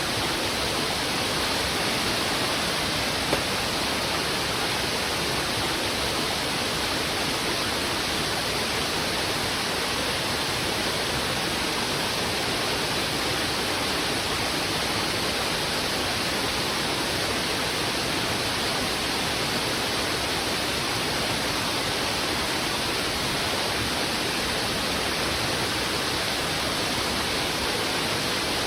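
Heavy river water rushing over rocks: a steady, dense roar of flowing water.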